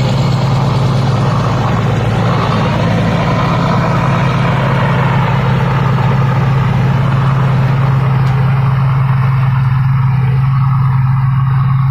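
Thai Seng Yont 'Chao Phayu 4.0' rice combine harvester's diesel engine running steadily at a constant speed, with a strong low hum under the machine noise.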